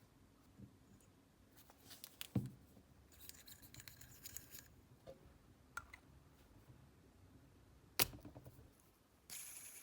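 Faint small-parts handling at a workbench: two sharp clicks, one about two seconds in and one near the end, between stretches of scratchy rasping, like scissors or snips cutting.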